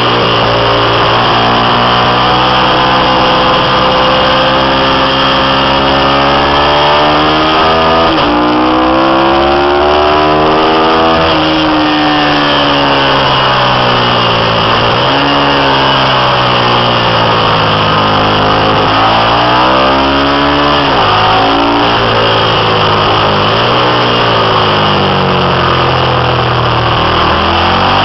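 Ducati 750 V-twin racing motorcycle engine running hard on a track, its pitch climbing again and again through the gears. The revs drop sharply several times, as the bike shuts off and slows for corners.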